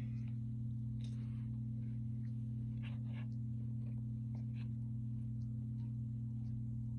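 A steady low electrical hum, with a few faint, brief clicks and rustles of eating or handling food about one, three and four and a half seconds in.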